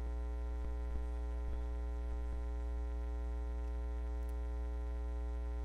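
Steady electrical mains hum with many overtones, with a few faint clicks.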